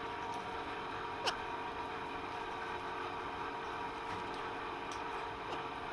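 Steady low background hum with faint steady tones, and one short, faint chirp about a second in.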